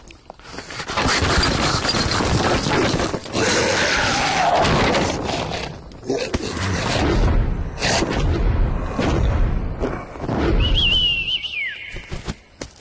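Cartoon slapstick sound effects: a dense run of crashes, booms and thuds, with a short wavering whistle falling in pitch near the end.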